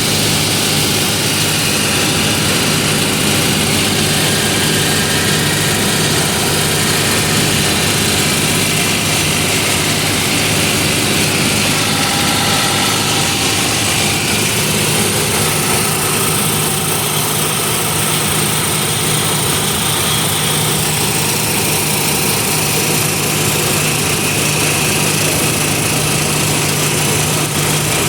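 A motor engine running steadily at a constant speed, with an even hiss over it.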